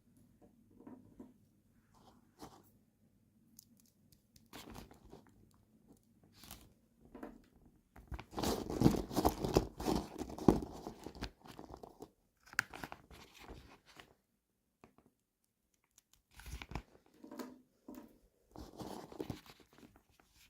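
Packaging being handled and torn open: crinkling, crunching and tearing rustles with scattered clicks. The densest, loudest stretch comes about eight to eleven seconds in.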